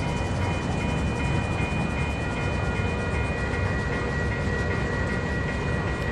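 Stopped train's diesel locomotive idling: a steady low rumble with several thin, steady high whines above it.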